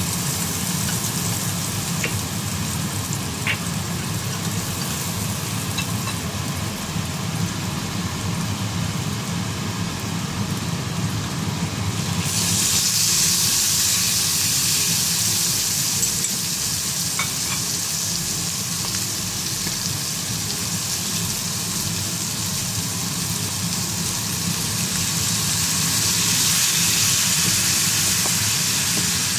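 Minced garlic sizzling in oil in a frying pan as it is stirred, with a couple of light utensil taps a few seconds in. About twelve seconds in, thin slices of beef go into the pan and the sizzle turns suddenly louder and hissier. A steady low hum runs underneath.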